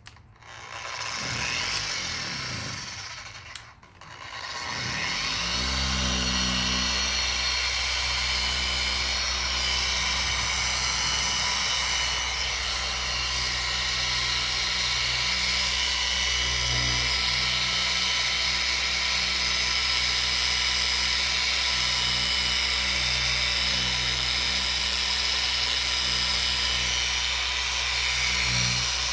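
Electric car polisher working a plastic headlight lens: it runs briefly and winds down, then starts again at about five seconds and runs steadily with a high whine.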